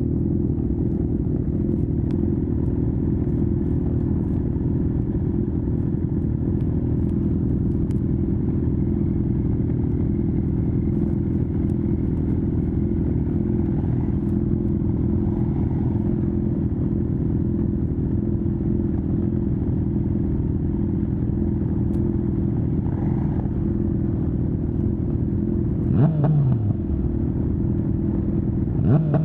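A 2019 Honda CB1000R's inline-four engine through a full Akrapovic exhaust, running steadily while riding at an even pace. Near the end the engine pitch briefly swoops up and down twice.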